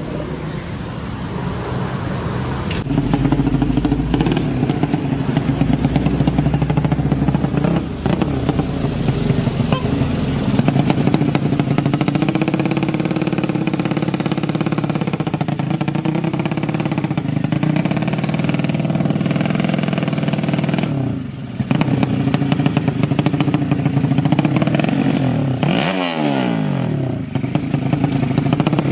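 200cc sleep-engine drag motorcycles running and revving, the engine note rising and falling in pitch; about three quarters of the way through it drops away briefly, then sweeps down and back up in pitch.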